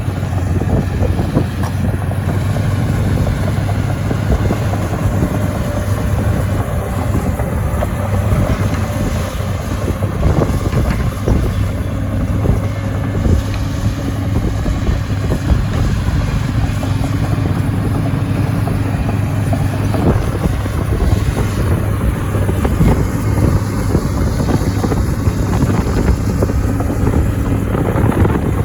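A SANY SY215C crawler excavator's diesel engine running steadily with a low drone, with a few short knocks. There is wind noise on the microphone.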